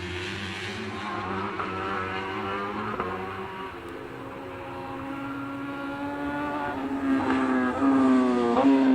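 Racing superbike engines running at high revs, the pitch climbing repeatedly as the bikes accelerate through the gears; louder near the end.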